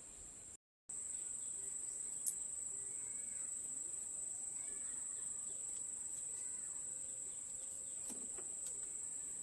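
Steady high-pitched insect shrilling with faint bird chirps over it. It starts abruptly just under a second in.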